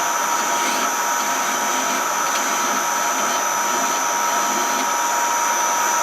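A high-speed electric motor in a machine shop runs steadily with a constant whine, and is switched off with a click at the very end.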